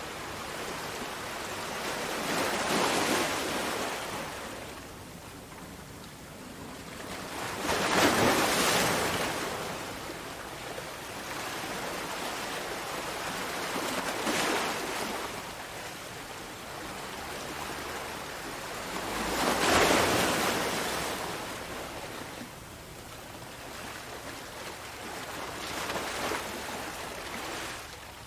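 Sea waves breaking and washing onto a shore, in surges every few seconds; the loudest breaks come about eight seconds in and about twenty seconds in.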